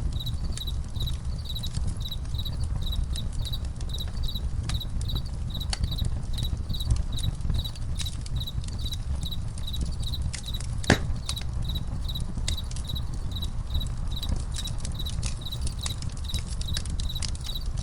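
Campfire crackling with scattered sharp pops, one much louder pop about eleven seconds in, over a low steady rumble. Crickets chirp evenly behind it, about three chirps a second.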